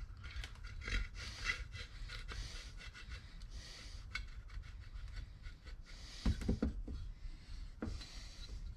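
Light clicks and scraping of small metal parts as a detent spring and ball are worked into a transmission's tail shaft housing, with a few louder knocks a little past six seconds in.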